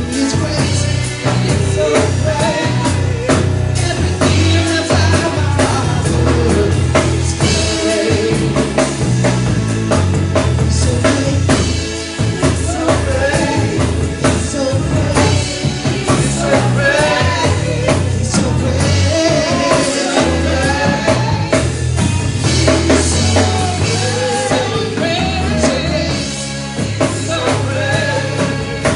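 Worship band playing a praise song: singing over a drum kit and low bass notes, steady and full throughout.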